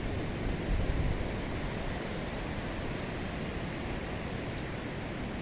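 Steady rushing noise of rough monsoon sea surf breaking on the shore, with a slight low swell about half a second to a second in.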